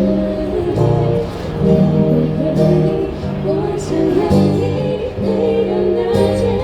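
Live band music: amplified guitar chords over steady bass notes, in a passage of a pop song between sung lines.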